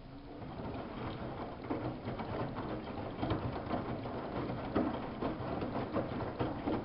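Samsung WF71284 front-loading washing machine running a wash: the drum turning with laundry tumbling and splashing in the water, over the low hum of the motor. It starts up about half a second in.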